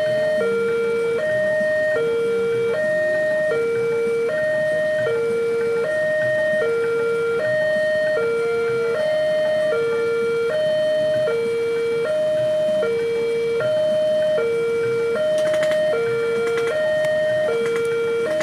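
Railway level-crossing warning alarm sounding continuously. It alternates two electronic tones, high and low, switching about every 0.7 seconds. A few faint clicks come near the end.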